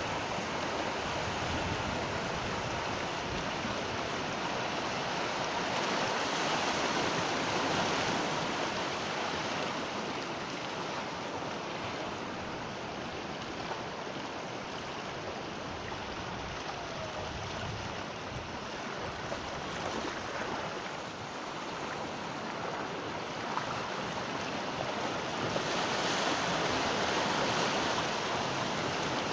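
Sea waves breaking and washing ashore in a continuous rush of surf. It swells louder twice, about six seconds in and again near the end.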